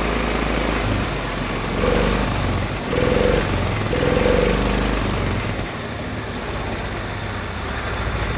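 10 hp Kohler single-cylinder engine of an old Case yard tractor running after a carburettor adjustment. It swells louder three times in the first half, then runs steadily.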